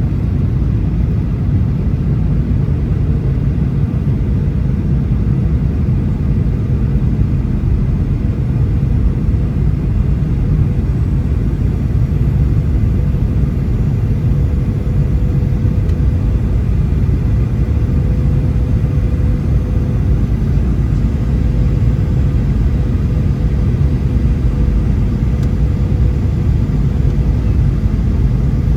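Boeing 737 cabin noise: a steady low rumble of engines and airflow, with a thin steady hum above it.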